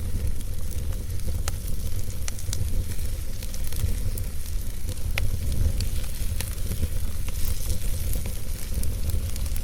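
Campfire crackling, with frequent sharp pops at irregular intervals over a steady hiss, and a continuous low rumble of wind beneath.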